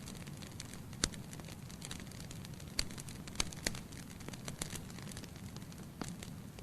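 Wood fire crackling in a fireplace: a steady low hiss of burning logs with irregular sharp pops and snaps, the loudest about a second in.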